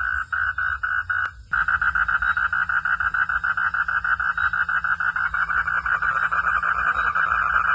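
Night chorus of frogs: a loud, steady run of rapid, evenly pulsed calls, about four a second at first. About a second in it cuts out briefly with a click, then comes back faster and denser.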